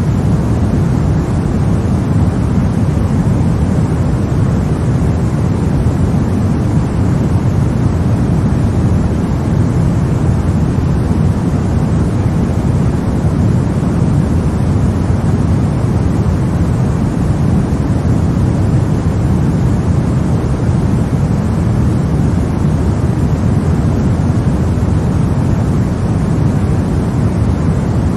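Sleep white noise for babies: a steady, unbroken deep hiss, heaviest in the low end, with no change in level.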